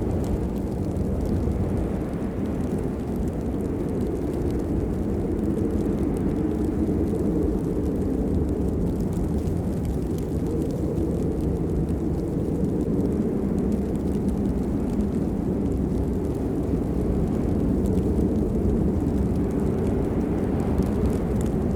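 Steady rain, heard as an even, deep rushing noise with no separate drops standing out.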